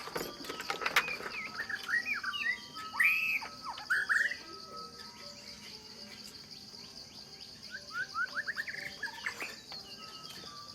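Wild birds chirping in short arching calls, in a burst around the first few seconds and again near the end, over a steady high-pitched insect drone of crickets or cicadas. A few sharp clicks come near the start.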